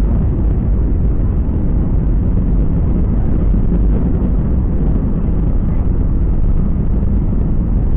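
Steady, loud rumble of a jet airliner heard inside the passenger cabin: engine and airflow noise, heaviest in the low end.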